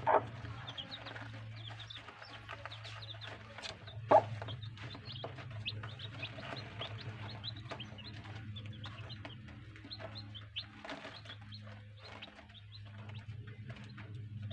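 Chicks peeping: many short, high cheeps one after another, over a steady low hum. Two louder sudden sounds stand out, one right at the start and one about four seconds in.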